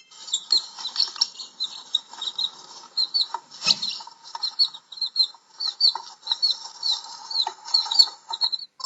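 Baby chicks peeping: many short, high cheeps, several a second and partly overlapping.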